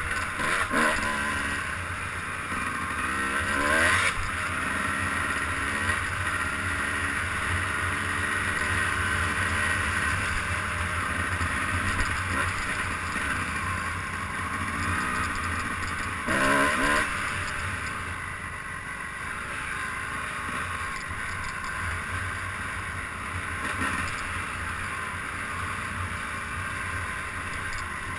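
Engine of a ridden vehicle running steadily, its pitch rising and falling as the throttle changes.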